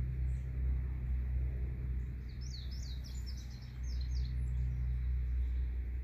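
A songbird sings a quick run of about ten short, high, falling notes about two seconds in, over a steady low rumble.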